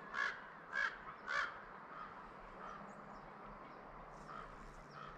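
A bird calling three times in quick succession, about half a second apart, followed by fainter, scattered calls.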